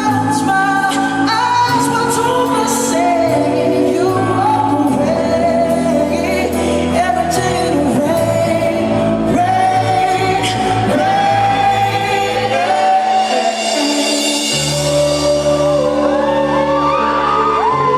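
Live pop ballad in a large hall: a band plays sustained chords under a male lead vocal, with shouts and whoops from the audience. The bass drops out for about a second past the middle, and a held, wavering vocal line rises above the band near the end.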